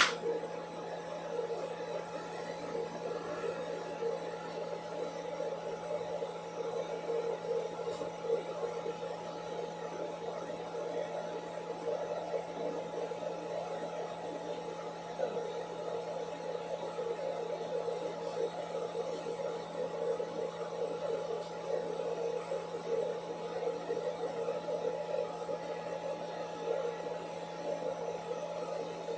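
Hair dryer running steadily, a constant hum with a rushing band of air noise.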